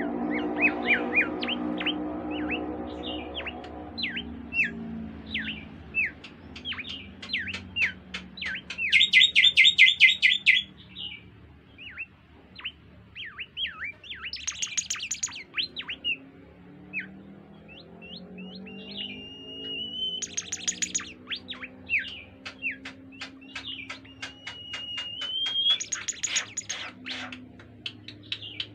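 A bimoli songbird singing vigorously. Bursts of fast repeated notes come every few seconds, with quick falling chirps between them and a couple of rising whistles near the end.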